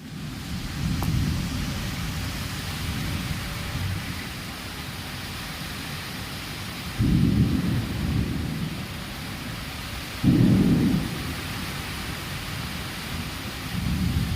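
Steady rain with thunder rumbling four times over it. The two loudest peals start sharply around the middle, and a softer rumble comes near the end.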